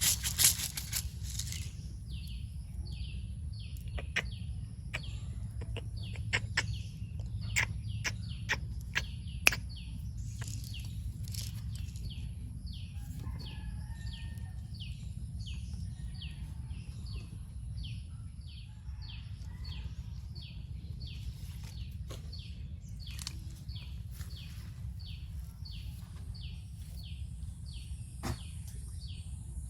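A bird calls a short falling note over and over, about twice a second. Several sharp clicks or taps come in the first third, over a steady low rumble.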